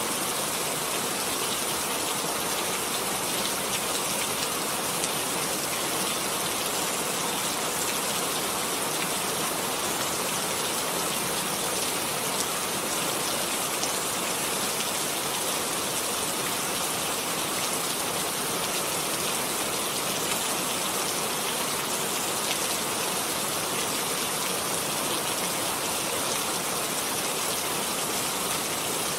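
Steady rain falling, a dense even hiss of drops with faint scattered patters.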